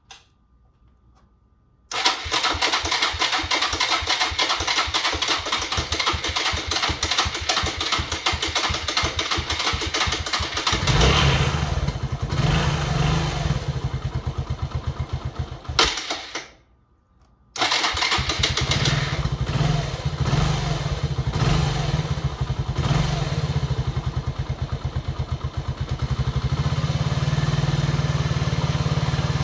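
Suzuki Djebel's single-cylinder four-stroke engine turning over on the electric starter for about nine seconds, then catching and running. It dies about five seconds later, is briefly silent, and is started again, running on to a steady idle. This is a cold start after a year laid up.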